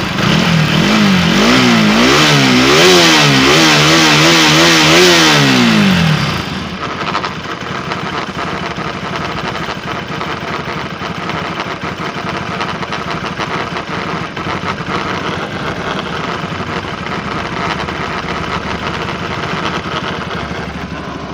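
Bajaj RS 200 single-cylinder engine revved in several quick blips for about six seconds, then settling to a steady idle. At idle it makes an abnormal noise that is heard only at idle and goes away when revved, which the mechanic traces to a clearance on the magneto (flywheel) side.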